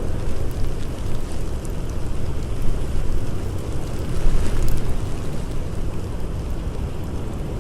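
Blizzard wind howling in a steady low rush that swells in gusts about a third and two-thirds of the way through, with scattered faint crackles of a campfire.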